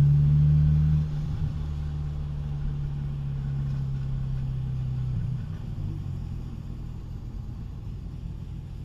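2006 BMW Z4 M's S54 straight-six with a muffler delete, heard from the cabin, running at low speed with a steady low exhaust drone. The note drops in level about a second in and weakens further around five seconds in as the car slows.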